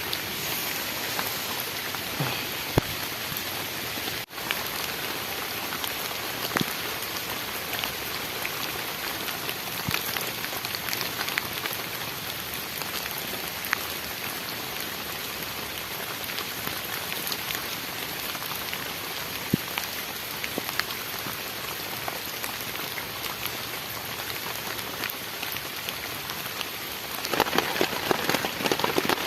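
Heavy tropical rain falling steadily, with scattered individual drops ticking; it grows heavier and louder near the end.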